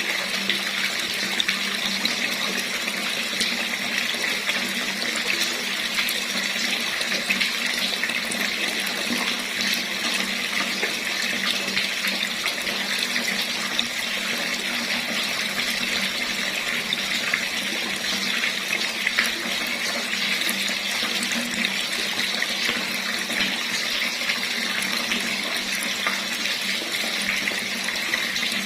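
Water running steadily from a tap into a basin: a continuous splashing hiss, brightest in the upper register, with a faint low hum underneath.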